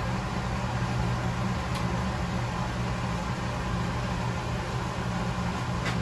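Steady mechanical hum of workshop machinery, with two faint light clicks, one about two seconds in and one near the end.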